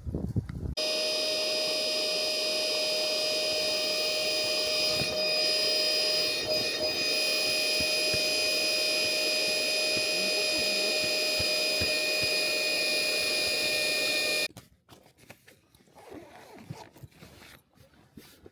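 A small electric blower motor running steadily with a constant whine over an airy hiss, switched on just under a second in and cut off abruptly about fourteen seconds later.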